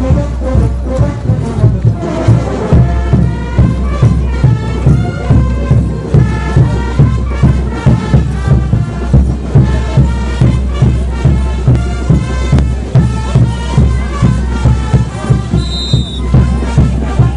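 Brass band playing Andean diablada music over a steady drum beat. A short high whistle sounds near the end.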